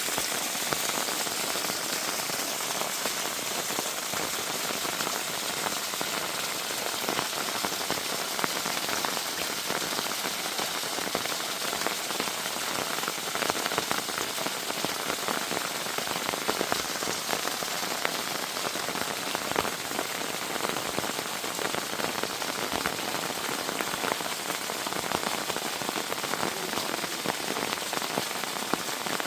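Heavy rain falling steadily: an even hiss of countless drops striking the ground.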